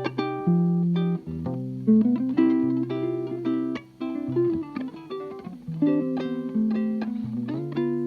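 Guitar playing a gypsy jazz blues: quick runs of plucked single notes and chords over low held bass notes.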